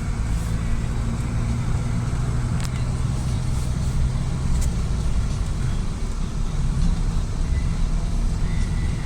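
Niva 4x4 engine and drivetrain humming steadily while driving slowly, heard from inside the cabin, with no knocking from the front hubs.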